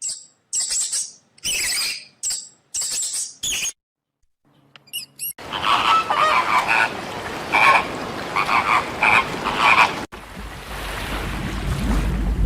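A run of edited animal calls: about five short, high-pitched chirping calls, a brief pause, then a noisier stretch of repeated croaking calls, giving way near the end to a low rumbling background.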